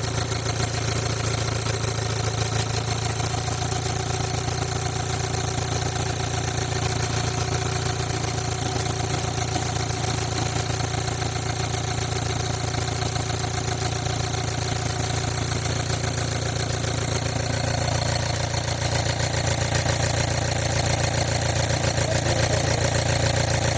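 Engine of a 2016 Kia Sorento idling steadily. It has a hard-starting fault that the mechanic traces to faulty fuel injectors (numbers 1, 2 and 4).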